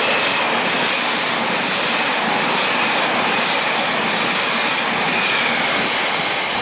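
Northern class 331 CAF Civity electric multiple unit passing close by: a steady rush of wheel and rail noise with a faint high whine that drops slightly in pitch.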